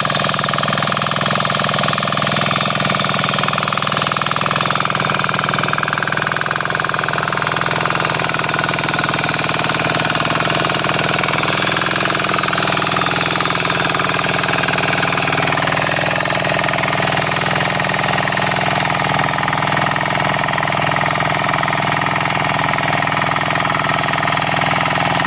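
A 7 hp power weeder's single-cylinder diesel engine running steadily, with a slight change in its note about halfway through.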